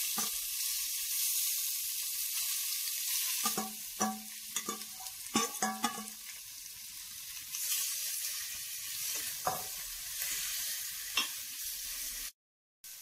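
Marinated chicken and onions sizzling as they hit hot coconut oil in a heavy stainless steel pot, a steady frying hiss. From about three seconds in, metal clinks and scrapes against the pot as the mixture is stirred. The sound cuts off suddenly just before the end.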